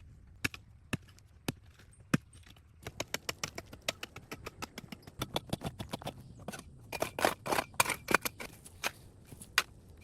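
A run of short, sharp clicks and cracks: a few scattered ones at first, then a dense irregular stream from about three seconds in, loudest around seven to eight seconds.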